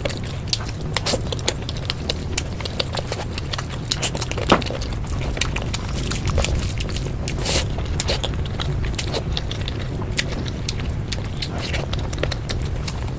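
Close-miked eating sounds: many short wet mouth clicks and chewing of rice and meat dishes, with a louder crunchy smack about seven and a half seconds in, over a steady low background hum.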